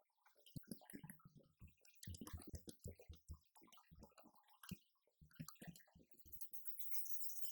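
Roland TD-50X electronic drum kit being played: a quick, irregular run of drum strokes, giving way near the end to cymbal or hi-hat hiss.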